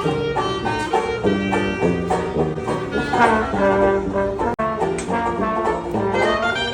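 A live band playing an upbeat tune, with brass such as trombone carrying the melody. The sound cuts out for a split second about halfway through.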